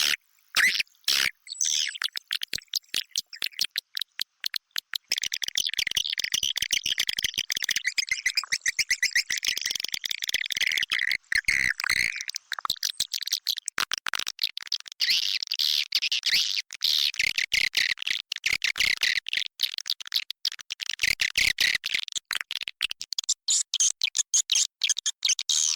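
Swiftlet lure call recorded inside a swiftlet house: a dense, rapid chattering of high chirps and clicks from many swiftlets, sparse at first and running thick and continuous from about five seconds in. It is the sound that swiftlet farmers play to draw birds into a nesting house.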